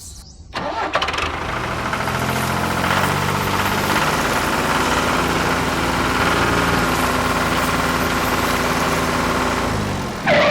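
An engine starts about half a second in and runs at a steady idle, then cuts off just before the ten-second mark.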